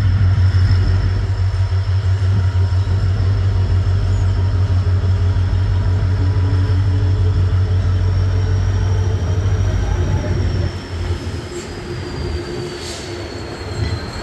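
Departing passenger train: a steady low locomotive hum with the rumble of the rolling train, and a thin, high wheel squeal that dips in pitch near the end. The sound drops somewhat in level about eleven seconds in.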